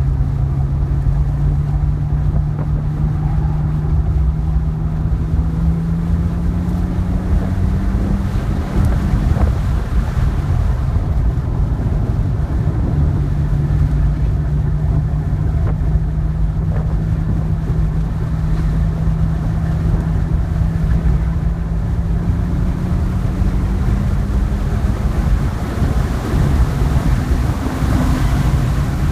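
2010 BMW 3 Series engine heard from inside the cabin under hard track driving, under heavy wind and road noise. The engine note climbs slowly for about nine seconds, drops away for a few seconds through a corner, then climbs again through to the end as the car accelerates down the straight.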